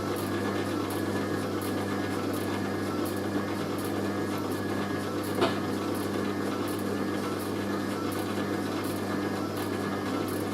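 Hoover A3060 Electronic 1100 washing machine's motor turning the drum in a slow distribution tumble before a spin, with a heavy, unbalanced sofa throw inside: a steady hum with faint regular ticking and a single knock about halfway through.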